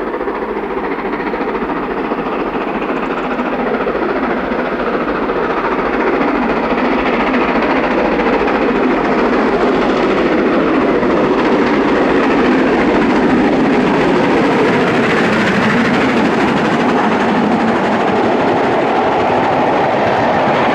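Preserved LMS steam locomotive working hard up the Shap incline with its train running past. The sound builds over the first several seconds as it draws near, then holds steady and loud.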